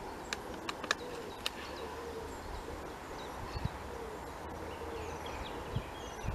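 Birds calling: repeated low, wavering calls and scattered high chirps, over a steady low background rumble. A few sharp clicks come in the first second and a half.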